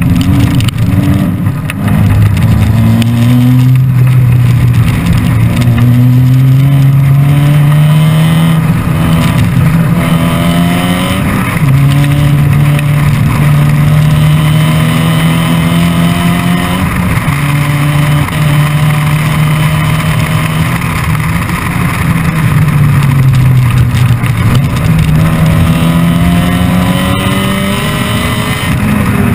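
Supercharged Mazda MX-5 four-cylinder engine in a MEV Exocet kit car at racing speed, heard close on board: the pitch climbs as it pulls through each gear, drops sharply at the upshifts, and falls away under braking about three-quarters of the way through before climbing again.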